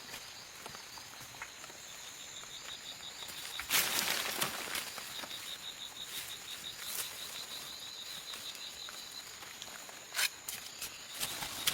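Forest insects trilling steadily at a high pitch, a fast pulsing trill under a steadier higher whine. A loud burst of rustling comes about four seconds in and a shorter one near the end.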